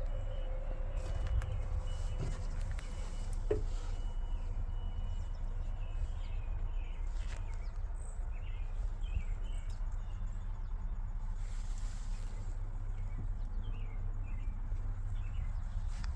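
Mack MP8 13-litre straight-six diesel idling with a steady low rumble, while birds chirp a few times.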